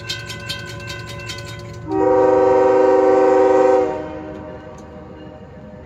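Diesel locomotive air horn, a Nathan K5HL chime, sounding one steady blast of about two seconds, about two seconds in, over the low rumble of the locomotive's engine. Before the horn there is rapid, even clicking.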